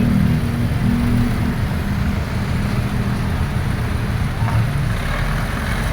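Excavator's diesel engine running steadily, with a deeper low hum joining about five seconds in.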